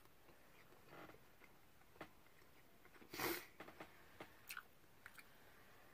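Soft, quiet sounds of a person chewing a mouthful of fried egg, with a few small wet clicks and one louder mouth noise about three seconds in.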